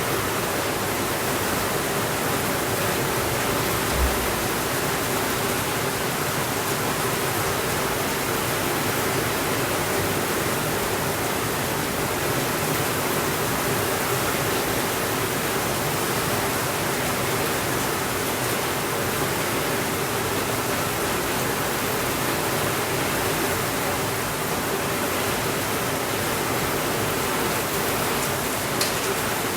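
Steady rainfall, an even hiss with no letup. There is a short low thump about four seconds in and a faint click near the end.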